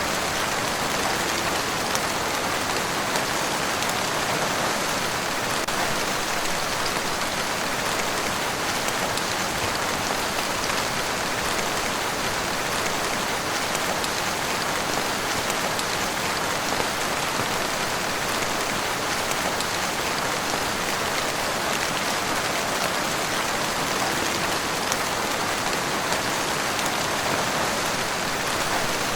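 Heavy rain falling steadily: a dense, even hiss with scattered drop taps, unchanging throughout.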